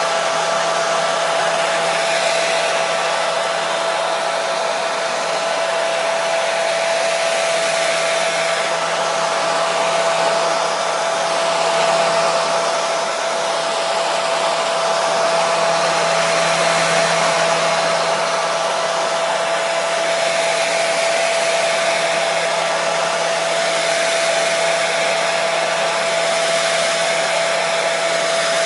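Hair dryer running steadily: an even airy rush with a constant whine from its motor, played as white noise to soothe a baby to sleep.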